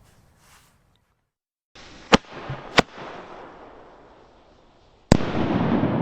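Zena Trueno Shot thunderkings (small firecrackers with a titanium flash) going off: two sharp bangs about two and three seconds in, and a third, louder bang near the end, followed by a loud, steady hiss.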